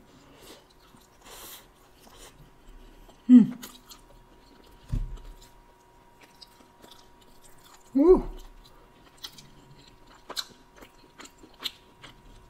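Close-up chewing of a bite of deep-dish pizza, with wet mouth clicks and smacking throughout. Two short hummed sounds come about three and eight seconds in, and a low thump about five seconds in.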